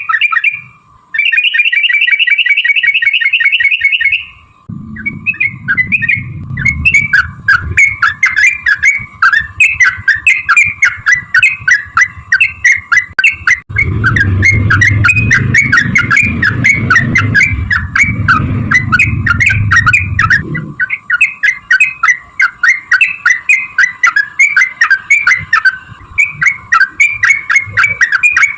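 Yellow-vented bulbul (trucukan) song: first a fast buzzy trill, then a long run of quick bubbling, chattering phrases, played as a lure to set other bulbuls singing. A low rumble runs under the song for most of the first two-thirds, heaviest in the middle.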